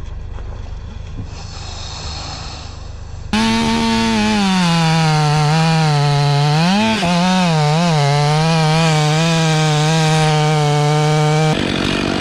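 Two-stroke chainsaw cutting through wood at full throttle, its engine pitch dipping and recovering as the chain bogs in the cut. It is quieter and more muffled for the first three seconds, then loud until it cuts off abruptly near the end.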